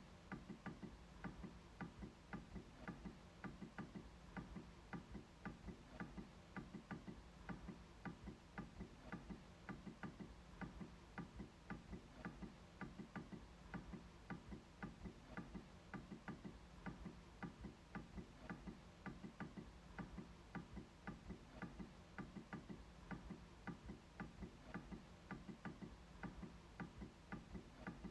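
MacBook trackpad being clicked over and over: faint, quick, evenly spaced clicks, about three or four a second.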